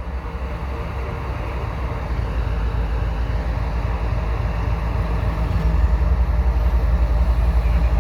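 Diesel engines of two GE ES44AC locomotives rumbling as the freight train creeps slowly past, the deep steady drone growing gradually louder.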